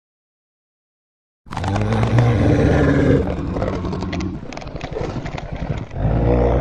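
Dead silence for about a second and a half, then a loud, deep Tyrannosaurus roar sound effect. It turns into a rough, crackling growl midway, and a second roar begins near the end.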